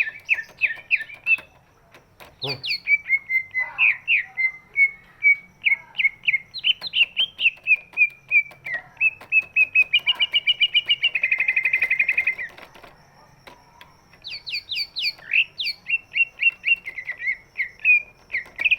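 Green leafbird (cucak ijo) singing in long runs of quick repeated chirping notes, with a dense fast trill a little past the middle and two short pauses.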